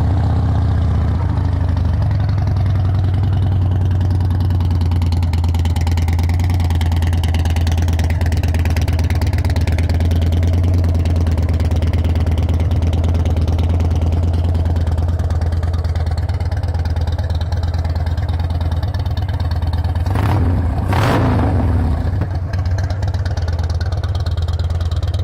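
2009 Harley-Davidson Fat Bob's Twin Cam 96 V-twin idling steadily through aftermarket Vance & Hines exhaust, with a Screaming Eagle heavy breather intake, just after being started. A brief louder surge, likely a throttle blip, comes about twenty seconds in.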